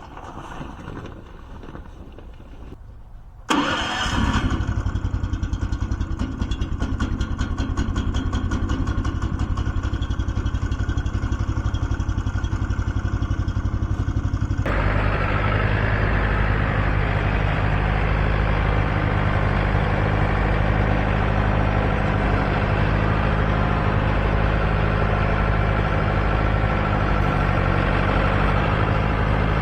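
Sawmill's engine starting about three and a half seconds in and running at a low speed, then throttled up about fifteen seconds in and running steadily at a higher speed.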